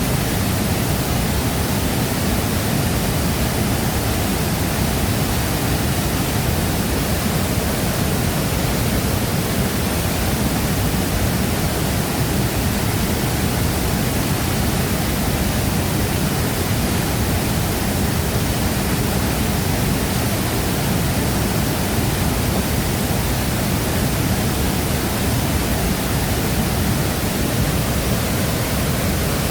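Shifen Waterfall's water pouring steadily into its pool: a dense, unbroken rush of noise that is heaviest in the low range.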